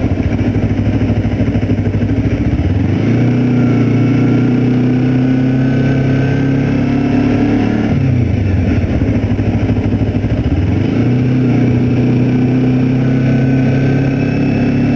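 2008 Kawasaki Ninja 250R's parallel-twin engine under way: low revs at first, rising and holding about three seconds in, dipping about eight seconds in, then climbing again and holding steady.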